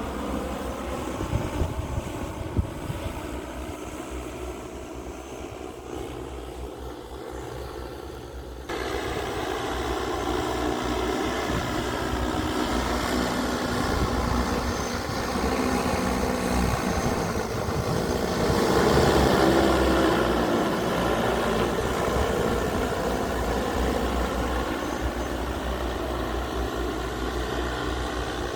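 Agricultural spraying drone's propellers humming, their pitch wavering as the rotors change speed. The sound jumps abruptly louder about nine seconds in and swells to its loudest around two-thirds of the way through as the drone comes close.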